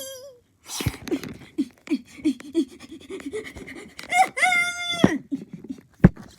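A person's voice making quick short panting huffs, about three a second, then a long high-pitched cry lasting about a second, followed by a single sharp click near the end.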